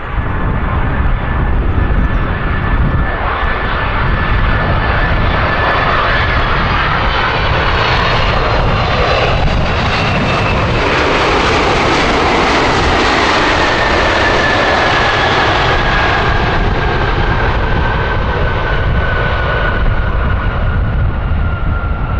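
Boeing 767-300 jet passing close by: the loud, steady roar of its two turbofan engines, with a whining tone that slowly drops in pitch over the second half.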